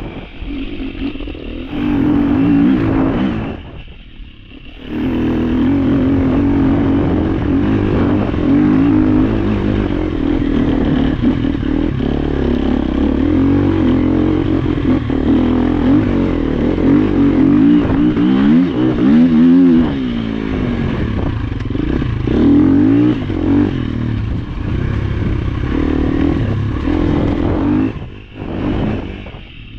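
Trail motorcycle engine running under load, its pitch rising and falling as the throttle is opened and closed over rough ground, with a brief drop in engine sound about four seconds in and again near the end.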